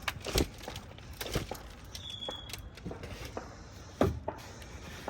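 A few dull thumps and knocks with quiet handling noise between them, the loudest thump about four seconds in; a brief faint high tone sounds about two seconds in.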